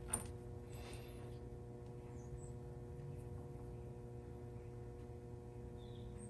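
Quiet room tone with a steady low electrical hum, broken by one sharp click just after the start and a brief faint rustle about a second in.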